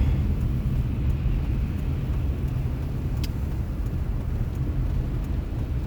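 Steady low rumble of a car being driven, heard from inside the cabin: engine and tyres on the road, with one sharp tick about three seconds in.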